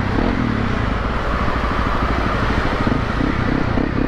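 Honda CRF dirt bike engine running at low, fairly steady revs, a rapid even pulsing.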